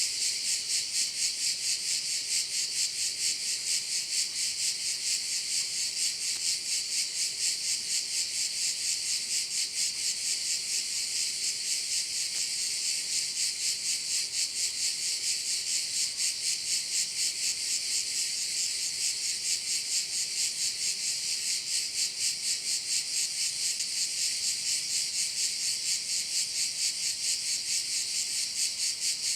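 Chorus of cicadas buzzing continuously, a dense high-pitched shrill that swells and fades in a steady rhythm of about three pulses a second.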